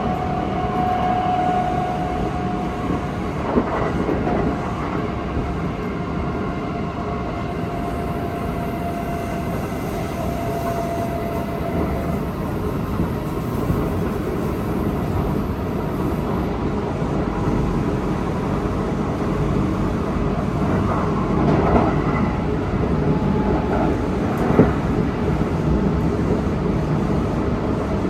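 Kintetsu Osaka Line electric train with a Hitachi GTO inverter running at speed: a steady rumble of wheels on the rails with a few sharp rail-joint knocks. A faint whine in the first dozen seconds fades out.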